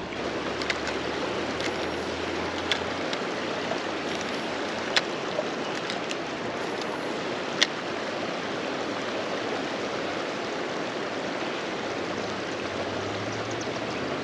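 Steady rush of flowing river water, with a few sharp clicks scattered through it.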